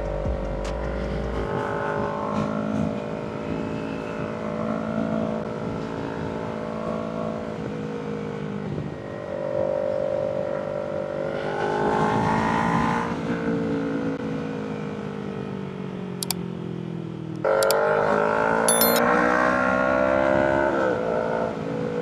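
Kawasaki Ninja 300's parallel-twin engine running under way, its pitch rising and falling with throttle and gear changes. About seventeen seconds in it jumps abruptly louder as the throttle opens.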